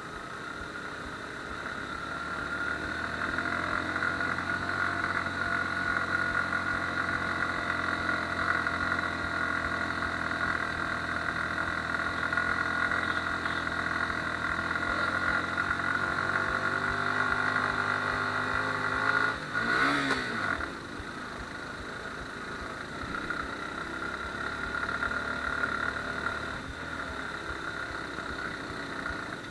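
Suzuki Gixxer single-cylinder motorcycle engine running under load on a rough hill track, its note slowly rising and falling, with a quick drop and rise in revs about two-thirds of the way through. A steady high hum lies over it throughout.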